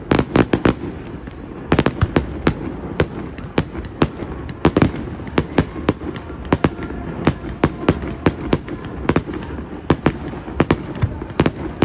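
Fireworks display: a rapid, irregular barrage of sharp bangs and cracks, several a second, over a continuous low rumble.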